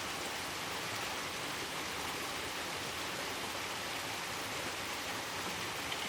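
Steady rushing of a mountain stream, an even wash of water noise with no breaks.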